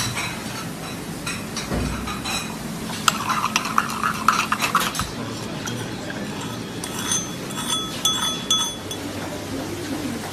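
Metal utensils clinking and tapping against cookware: a quick run of sharp clicks, then several short ringing clinks near the end, over a steady background hum.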